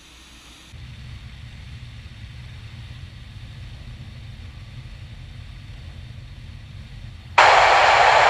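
Low, steady drone of a Cessna 150's engine in flight, coming in about a second in. Near the end, a loud burst of hiss lasting under a second, just ahead of a radio call.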